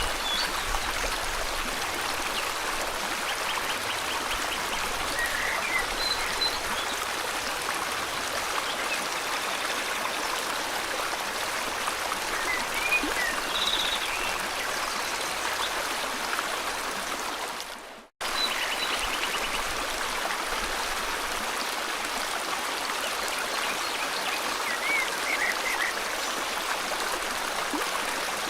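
River water flowing steadily, with short bird chirps scattered over it. Just past the middle the sound fades out to silence for a moment and cuts straight back in.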